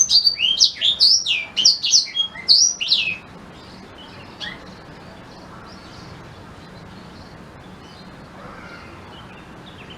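Blackthroat (black-throated canary) singing a fast, loud phrase of sharp rising and falling whistled notes for about three seconds, followed by a few faint notes and then a pause.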